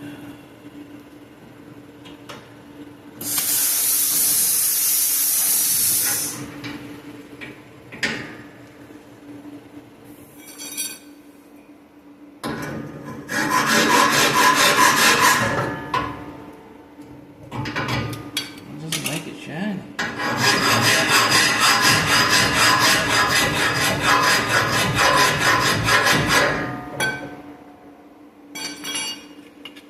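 Plasma cutter torch cutting exhaust pipe: a few seconds of hissing air from the torch, then two long spells of harsh, buzzing crackle from the cutting arc, the second about seven seconds long, with a few short crackles between them. A steady low hum runs underneath.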